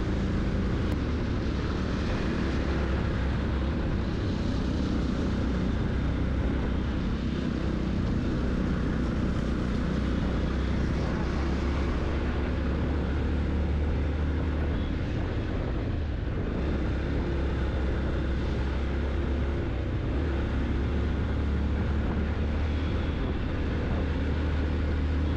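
Motorcycle riding steadily uphill, its engine running under a steady rush of wind and road noise.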